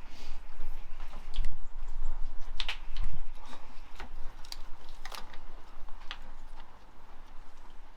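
Scattered metallic clicks and knocks of hand tools and parts being handled while fitting components to an engine and gearbox, with a couple of dull thuds in the first half.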